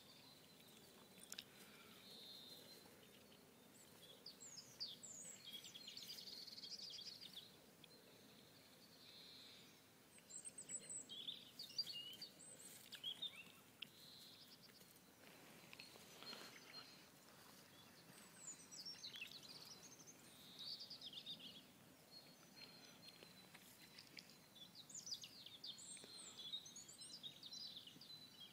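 Faint songbirds chirping and singing in short bursts every few seconds, over a quiet outdoor background.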